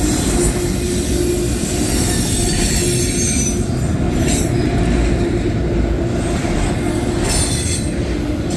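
Loaded autorack freight cars rolling past with a steady, loud rumble of wheels on rail. Brief high-pitched wheel squeals rise over it about four seconds in and again near the end.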